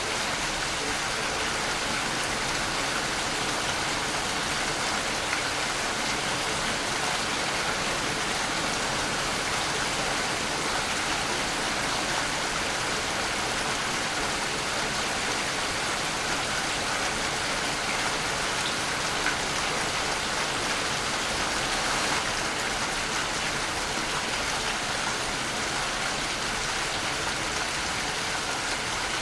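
Waterfall: the steady rush and hiss of falling water, even and unbroken, with no other sounds standing out.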